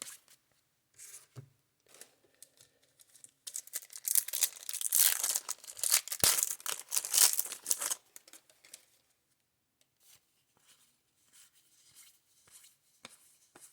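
A wrapper crinkling and tearing, loudest from about three and a half to eight seconds in, with light handling clicks before and after.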